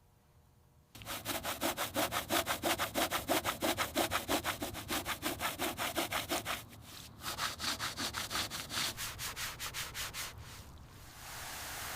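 Rapid back-and-forth rubbing strokes by hand on a surface, about five a second, starting about a second in. They pause briefly past the halfway point, then resume more softly and die away near the end.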